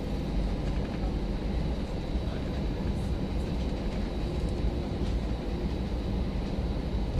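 Cabin noise inside an Airbus A319 on the ground after landing: a steady low rumble, with a faint steady high whine above it.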